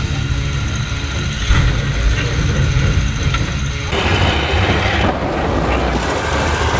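Motorhome engine running with a heavy low rumble, and two deep thumps about one and a half and two seconds in.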